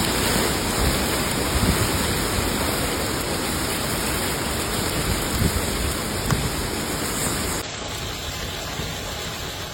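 Heavy storm precipitation, rain or hail, drumming steadily in a dense hiss. About three-quarters of the way through it cuts abruptly to a quieter, duller stretch of the same kind of storm noise.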